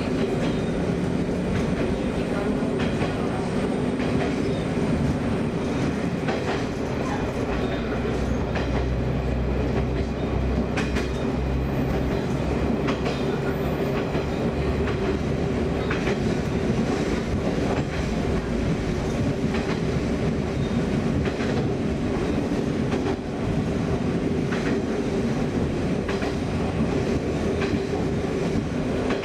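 Diesel railcar running steadily along a single-track line, heard from inside the driver's cab: a continuous engine drone and rumble with wheels ticking now and then over rail joints.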